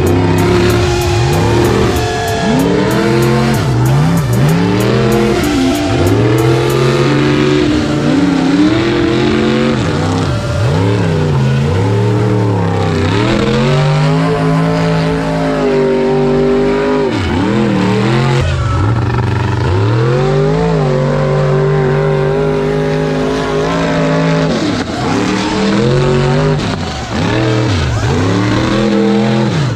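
Motor noise revving up and down over and over, its pitch climbing and falling in quick sweeps with brief steady stretches between.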